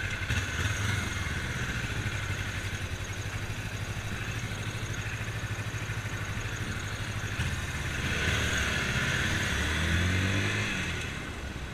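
Motorcycle engine running with a steady, pulsing low note, then getting louder with rising pitch from about eight seconds in as the bike pulls away.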